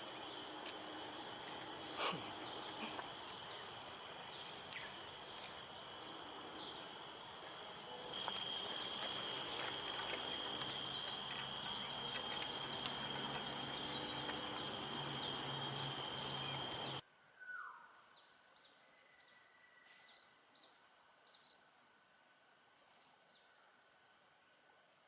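A steady, high-pitched insect chorus of several sustained buzzing tones. It grows louder about a third of the way in, then cuts off abruptly, leaving a quiet background with a few short, faint bird chirps.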